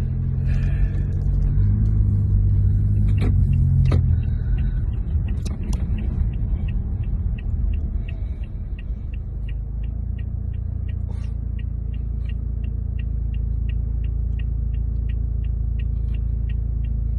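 Low, steady rumble of a car's engine and road noise, heard from inside the car. From about six seconds in, an even clicking of two to three ticks a second runs over it.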